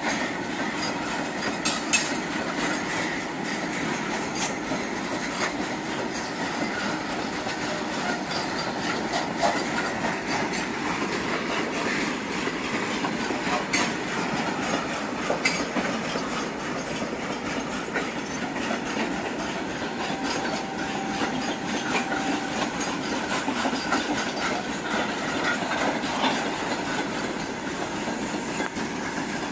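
Train on the line heard from a distance, a steady rumble along the rails with a few sharp clicks.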